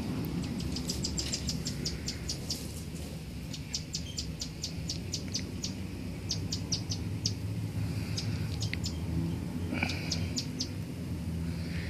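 A small bird chirping in quick runs of short, high chirps, about five or six a second, with several pauses between runs. A steady low rumble with a faint hum runs underneath.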